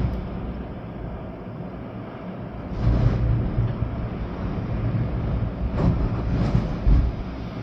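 Storm wind gusting with rain, a deep rumbling noise of gusts buffeting the microphone that swells about three seconds in and again near the end.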